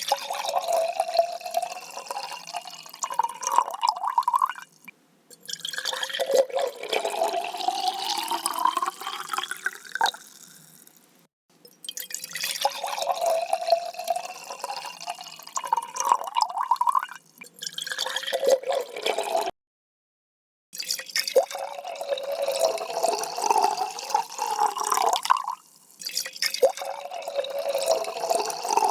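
Water being poured into a container in several separate pours with short breaks between them. In the second pour the pitch rises steadily as the vessel fills.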